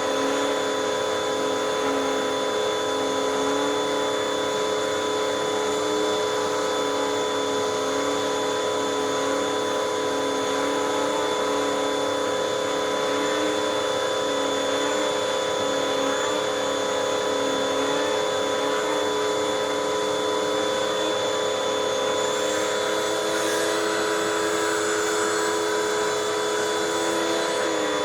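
Hoover WindTunnel 2 upright bagless vacuum running steadily with a pet tool in use. Its hum shifts slightly up and down in pitch, rising and holding higher for a few seconds near the end before dropping back.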